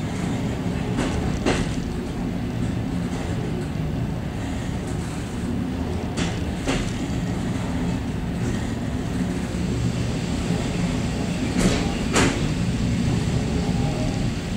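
Suburban train rolling along the track, heard from inside its vestibule: a steady low rumble, with pairs of sharp clacks about half a second apart, three times, as the wheels cross rail joints.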